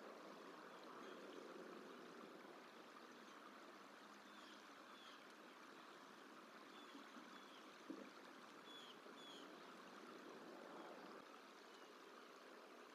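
Faint, steady rush of flowing water, with a small bird's thin, high chirps a few times in the middle and a single soft click about eight seconds in.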